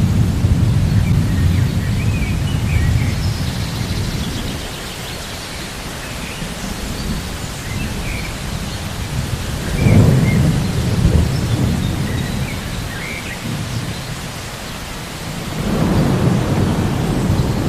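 Rain falling steadily with rolling thunder: deep rumbles swell at the start, about ten seconds in, and again near the end.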